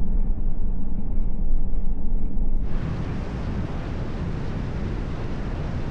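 Truck driving on a dirt road: a steady low rumble of engine and tyres. About two and a half seconds in it changes suddenly to a wider, hissing wind and road noise.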